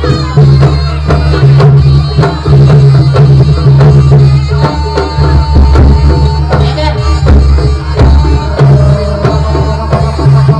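Jaranan accompaniment music: hand drums (kendang) beating in a fast, busy rhythm over a heavy, sustained low bass, with held melodic notes above.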